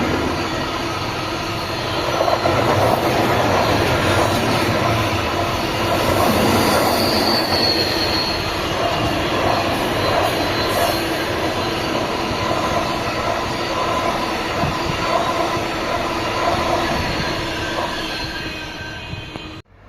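A train passing close by, its steady rolling rumble laced with squealing from the wheels on the rails. The sound cuts off suddenly near the end.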